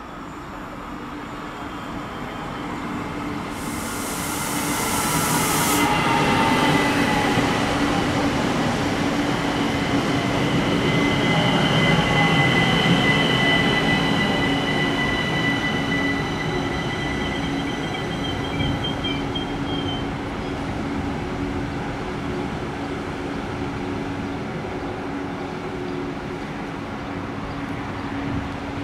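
A train running along the rails, growing louder over the first few seconds and then slowly fading, with a steady low hum and high wheel squeal through the middle. A short, sharp hiss comes about four seconds in.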